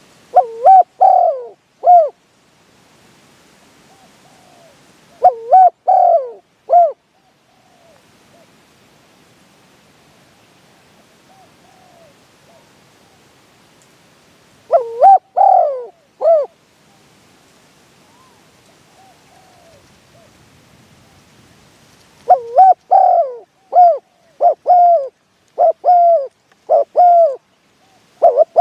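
Spotted dove cooing loudly and close by, in short phrases of a few coos with pauses of several seconds between them, then a longer run of coos near the end.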